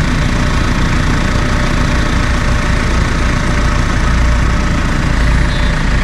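Vehicle engine running steadily, a low drone without a break.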